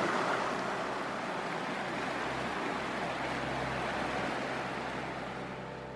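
Steady rush of fast-flowing water, easing off slightly near the end.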